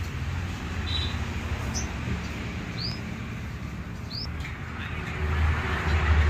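A bird's short high chirps, about four of them a second or so apart, over a steady low rumble that grows louder near the end.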